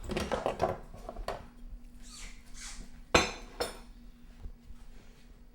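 Ceramic bowl and plate clattering and scraping as they are handled, with a sharp knock a little after three seconds in and a lighter one just after.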